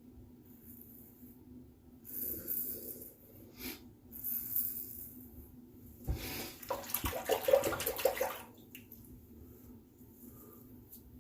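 Wet shave with a Razorock Gamechanger safety razor: two short scraping strokes, then a louder few seconds of splashing water and clicks from about six seconds in, as at a sink where the razor is rinsed.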